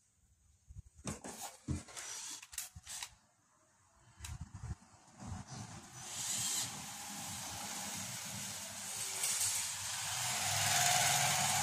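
Scattered clicks and knocks as rice-cooker parts are handled and fitted, then a power screwdriver running steadily for several seconds while the cooker is reassembled.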